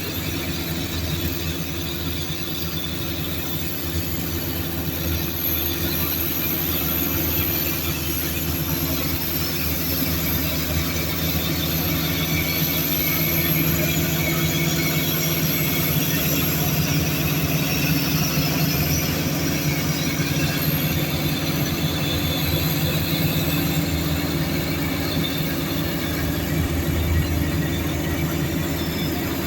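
Heavy tracked earthmoving machinery working: a diesel engine running steadily, with faint high squeals of the steel crawler tracks and undercarriage over it.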